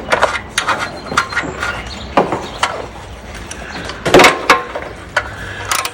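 Hand tools and small metal parts being handled during work on a minibike: scattered clicks and knocks, with a louder clatter about four seconds in.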